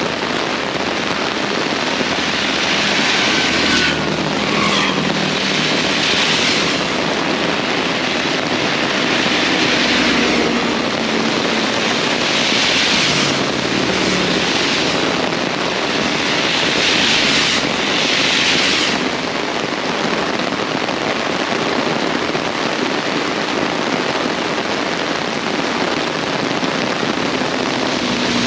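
Heavy rain pouring hard and steadily, with several swells of louder hiss as gusts or heavier bursts pass.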